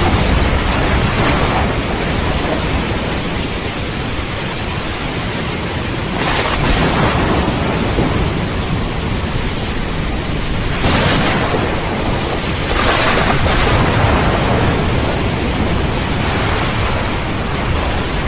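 Thunderstorm: steady heavy rain hiss with low thunder rumbling throughout and several louder crashes swelling up, around 6 s, 11 s and 13 s.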